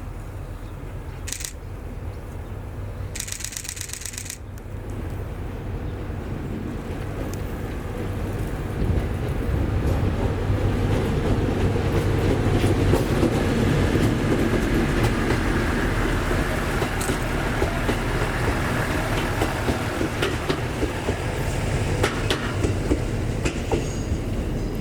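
A train approaching and passing: a low rumble of wheels on rail that grows louder from about six seconds in and is loudest past the middle, with scattered sharp clicks from the rails. Two short high hisses come about one and three seconds in.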